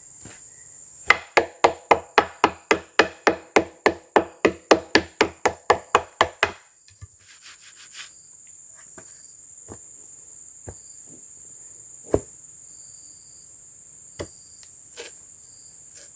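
A fast, even run of about twenty ringing strikes on wood, about four a second, lasting some five seconds, followed by a few scattered single knocks. Insects drone steadily in the background at a high pitch.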